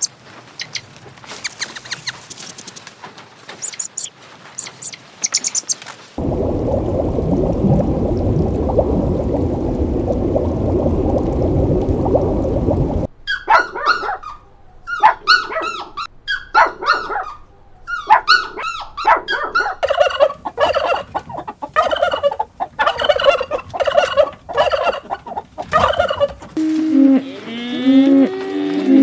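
A string of animal calls one after another: scattered chirps and clicks, then a loud rough noise of about seven seconds, then a long run of quick, repeated pitched calls, and a few low drawn-out calls near the end.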